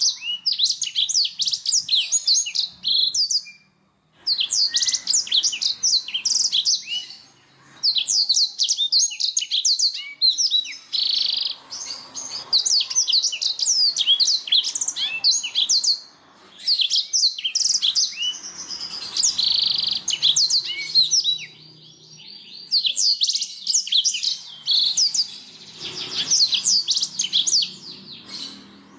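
Domestic canary singing: long phrases of rapid, high chirps and trills, broken now and then by short pauses.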